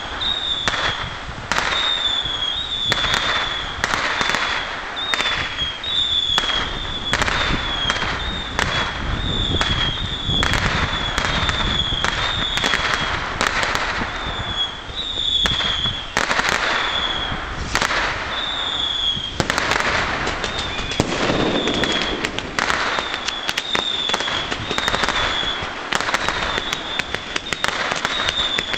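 Ground firework display of fountains and waterfall gerbs spraying sparks, with a continuous hiss and crackle. Short whistles that dip slightly in pitch repeat about once or twice a second over the top.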